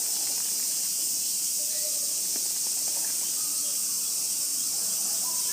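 A steady, unbroken high-pitched drone of a cicada chorus in summer heat.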